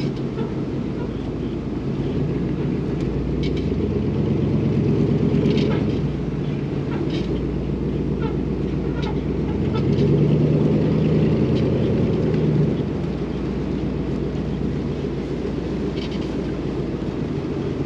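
Engine running, its note swelling and easing off twice, about four and about ten seconds in.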